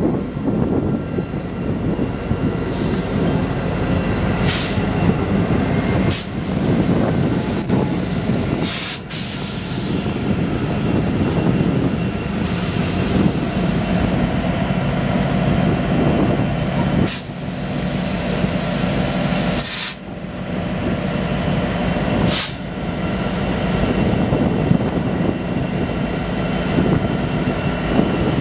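CN diesel-electric freight locomotives passing close by: engines running with a steady low rumble and wheels rolling on the rails, with about six sharp clacks scattered through.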